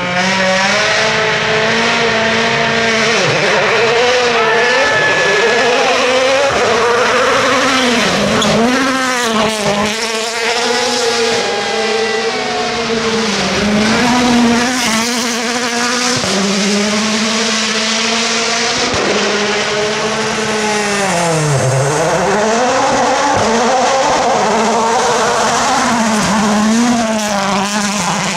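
2017-spec World Rally Car's 1.6-litre turbocharged four-cylinder engine at full throttle on a rally stage, its pitch rising and falling quickly with gear changes and lifts. About three-quarters through, the revs drop deeply and climb back.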